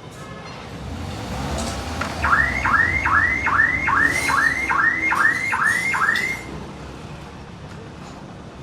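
A car alarm siren sounding a fast run of about ten identical rising whoops, about two and a half a second, that stops abruptly about six seconds in, over steady low workshop noise.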